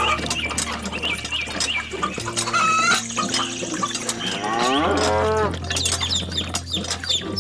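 Farm animal calls: chickens clucking, with a cow mooing in one long call that rises in pitch about halfway through.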